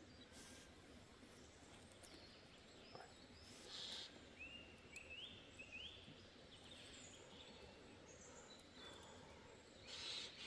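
Near silence, with faint bird chirps: a run of three short rising calls about halfway through, and a few fainter high calls around them.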